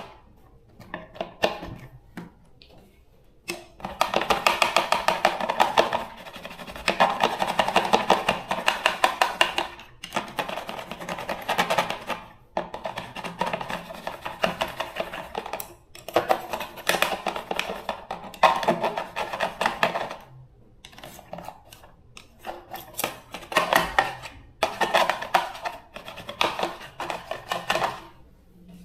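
Rapid hand scraping strokes on a part, coming in bursts of two to four seconds with short pauses between them.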